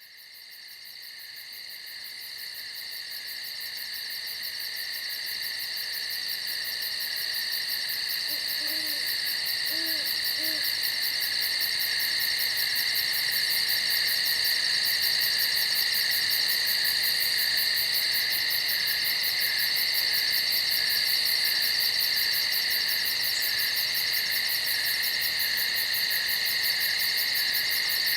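A dense night insect chorus: a steady, high-pitched, fast-pulsing trill that fades in over the first several seconds and then holds. About nine seconds in, an owl gives three faint low hoots beneath it.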